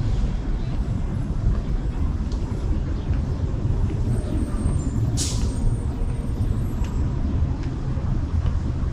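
Steady low rumble of street traffic, with one short, sharp hiss about five seconds in.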